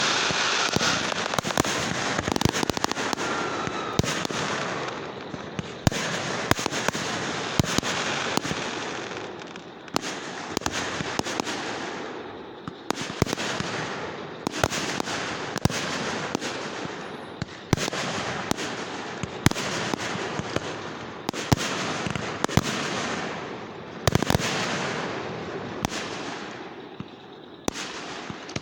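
Fireworks going off one after another: a sharp bang about every two seconds, each followed by a dense spray of small crackling pops that dies away before the next.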